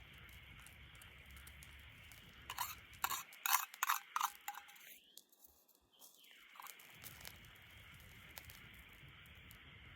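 A short run of sharp crunching clicks a few seconds in, over a steady faint hiss.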